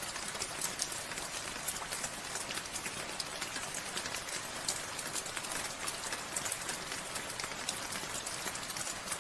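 Steady rain falling, a constant hiss with many separate drops ticking sharply on nearby surfaces.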